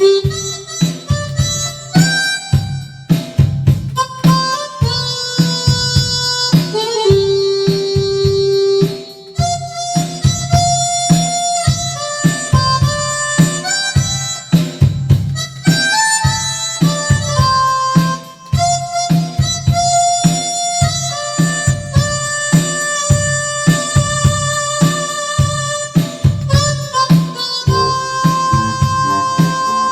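Roland D-50 synthesizer playing a harmonica patch: a melody of held notes, some with a wavering vibrato, over a steady backing beat with bass.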